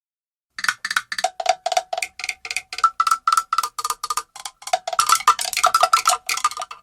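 A fast run of short, pitched percussion strikes, cowbell-like, about five a second, starting about half a second in and stopping abruptly near the end. The pitch steps between a lower and a higher note, like a little rhythmic pattern.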